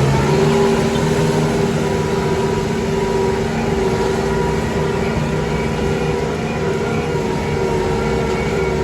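Tractor engine running steadily at a constant, fairly high speed.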